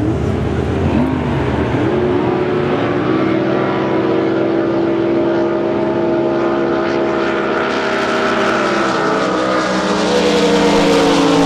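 Racing drag boat engine running at high revs. Its pitch climbs in a few quick rises in the first seconds, then holds steady, and steps up and gets louder near the end.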